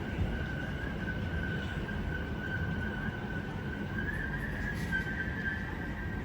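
Greater Anglia Class 720 electric multiple unit pulling out of the station: a steady traction-motor whine that climbs slightly in pitch about four seconds in as the train gathers speed, over a low rumble of wheels on rail.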